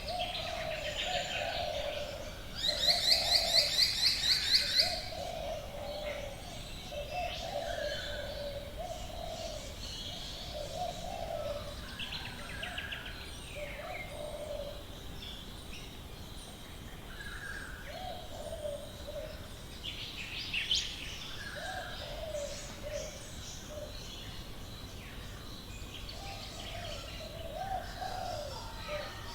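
Several Australian bush birds calling together. A low call repeats every second or two throughout, with scattered higher chirps and whistles. The loudest sound is a rapid high trill of quick repeated notes about three seconds in, lasting a couple of seconds.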